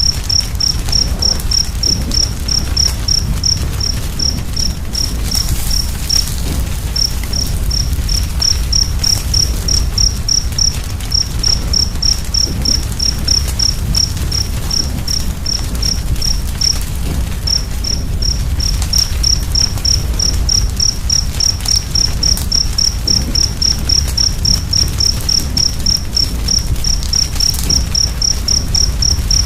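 A cricket chirping steadily, about three chirps a second, pausing briefly twice. Under it runs the low rumble and occasional pops of a crackling wood fire.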